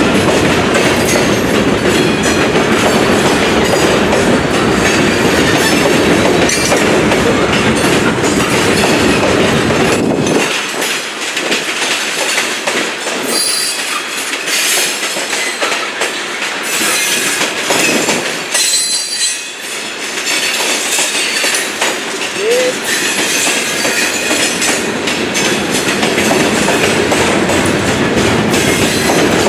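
Railroad cars rolling past on the track: steady wheel-on-rail noise with wheel clicking and high wheel squeal. The low rumble drops away about ten seconds in, leaving mostly the higher rail noise.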